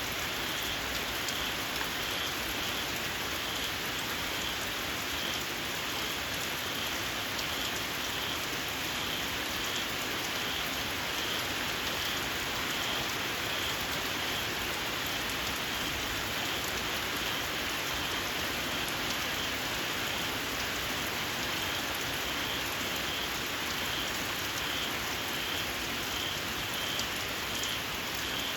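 Steady rain falling, with a small paddy frog calling shrilly through it in a regular series of short, high notes.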